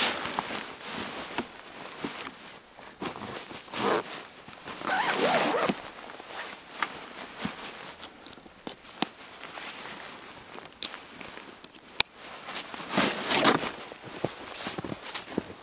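Irregular rustling and crunching handling noises with scattered small clicks and one sharp click about twelve seconds in, as of someone moving about and handling gear in snow.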